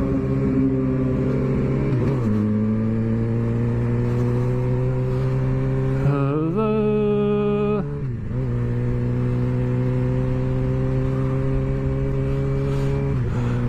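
Motorcycle engine running hard at steady high revs. The pitch drops with a gear change about 2 s in, climbs for a moment around 6 s, falls back near 8 s and drops again shortly before the end.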